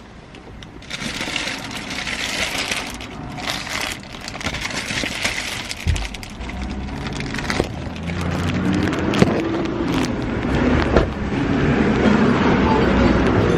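Plastic packaging of braiding hair being handled, with crinkling and rustling and many sharp clicks, louder in the second half.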